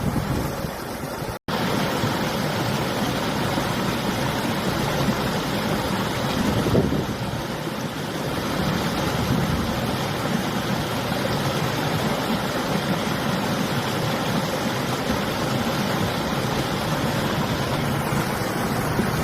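River water flowing steadily, mixed with winter wind rushing over the microphone, as one even rushing noise. The sound cuts out for an instant about a second and a half in.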